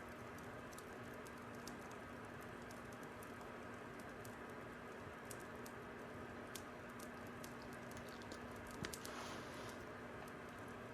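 Fire crackling: a steady hiss with irregular small pops and one louder crack near the end, followed by a brief hiss, over a faint steady hum.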